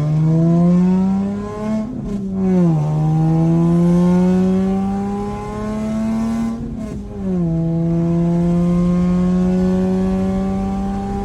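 Lotus Evora's 3.5-litre V6 through a straight-pipe exhaust, loud and accelerating hard. It climbs in pitch, shifts up about two seconds in and again about seven seconds in, dropping in pitch at each shift and then pulling up again more slowly.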